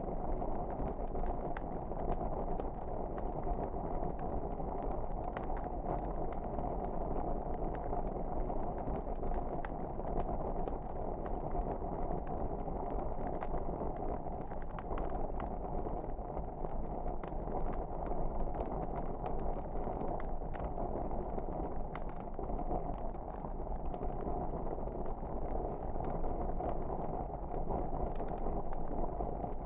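Log fire burning: a steady low rushing sound with frequent scattered sharp crackles and pops.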